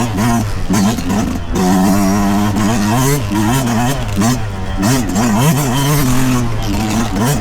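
2023 Yamaha YZ125's single-cylinder two-stroke engine under way on a dirt trail, its revs rising and falling over and over as the throttle is worked.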